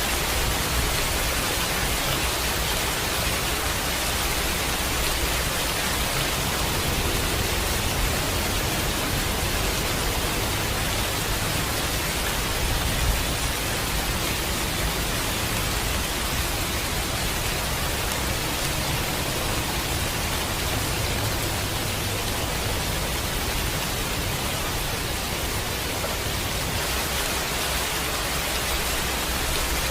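Steady heavy rain falling, an even hiss. A low rumble swells underneath now and then, strongest about 13 s in: distant thunder.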